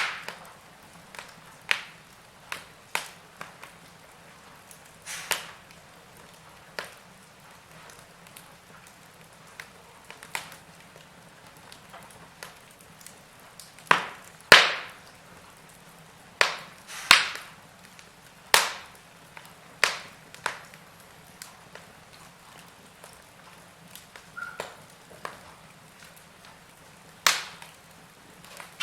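Wood fire in a fireplace crackling, with irregular sharp pops and snaps of varying loudness over a faint steady background. The loudest pops come around the middle.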